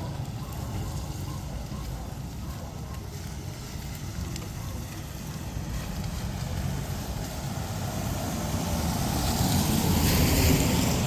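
Street traffic: a steady low engine rumble, with a vehicle drawing closer and growing louder near the end.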